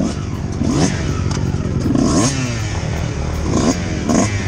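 Dirt bike engine revving, its pitch rising and falling several times as the throttle is opened and eased off, with scattered clicks and clatter.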